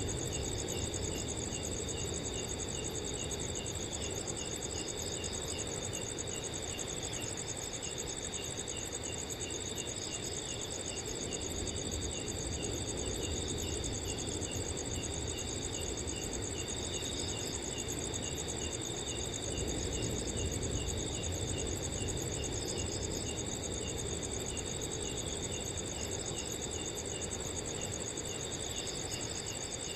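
A chorus of crickets: a continuous high trill with a slower, regular chirp repeating two or three times a second. Under it runs a soft, low rush of wind.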